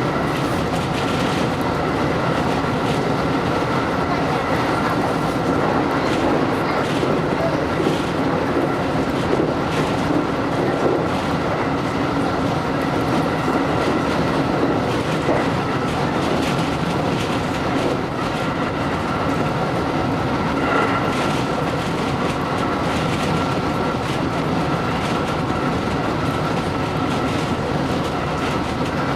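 JR electric train running at steady speed, heard from inside the car: a continuous rumble with a steady high whine and occasional clicks of wheels over rail joints.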